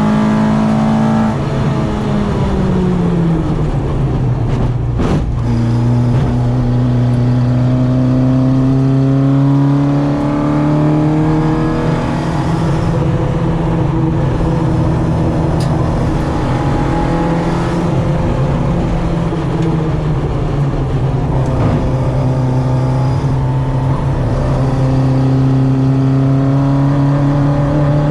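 Citroen AX 8-valve four-cylinder engine on twin Weber 40 carburettors, driven hard on a circuit. The revs fall steeply about two seconds in, with a sharp click just after, then climb slowly and steadily for several seconds. They ease briefly around twenty seconds in and climb again near the end.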